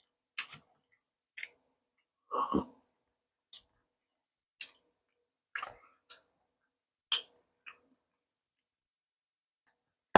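Close-miked eating sounds from a Korean boxed lunch: about nine short, crisp clicks and crunches spaced roughly a second apart, with a duller, fuller knock about two and a half seconds in.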